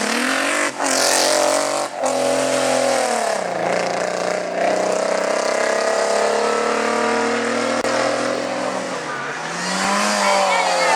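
Hillclimb race car engine revving hard, its pitch climbing and cutting briefly twice in the first two seconds as it shifts up. The revs then fall away, and the engine pulls a long, slow climb before easing off and rising again near the end.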